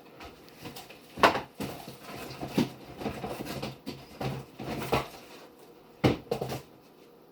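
Handling noises: a series of irregular knocks and clicks with rustling in between, as a box and food containers are moved about and set down.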